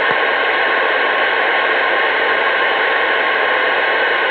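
Steady, loud hiss of static from a CB radio receiver on an open channel, with no voice coming through.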